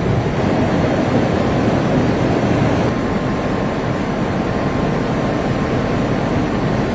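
Steady, loud engine and airflow noise of an aircraft in flight, with no break or change.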